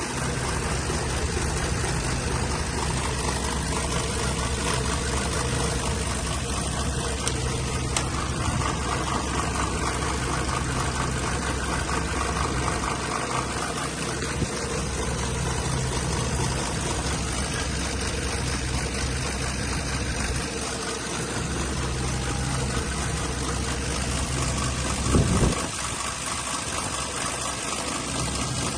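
Mercedes-Benz M266.920 1.5-litre inline-four petrol engine idling steadily, with one short rise in pitch and loudness near the end.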